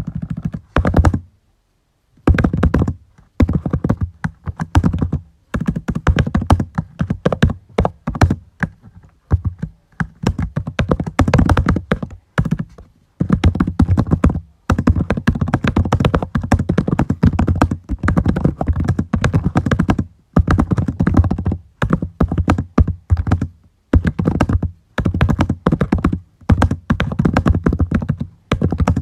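Typing on a computer keyboard in quick runs of keystrokes broken by short pauses.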